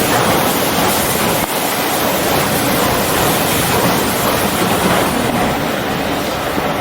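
Steady rushing noise of a train on the move: carriage rolling noise mixed with wind buffeting the microphone.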